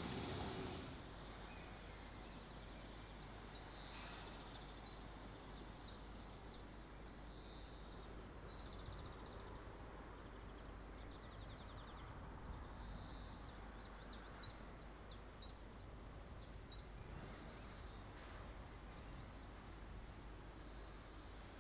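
Faint background ambience with small birds chirping: clusters of short, high chirps over a steady low hum.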